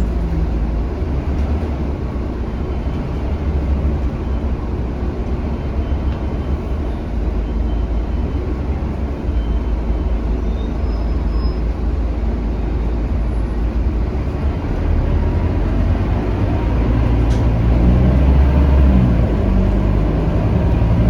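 Scania K310UB city bus's diesel engine running under way, heard from inside the cabin over steady road noise. About fifteen seconds in, the bus pulls harder and the engine note rises and grows louder as it accelerates.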